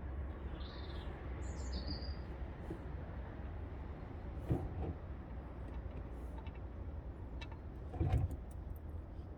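A few short, high bird chirps over a steady low rumble, with two short knocks, one about halfway through and one near the end.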